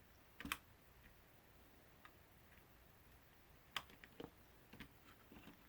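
Near silence broken by a few faint, short clicks and ticks: small parts being handled during the repair, once about half a second in and a couple more a little before the end.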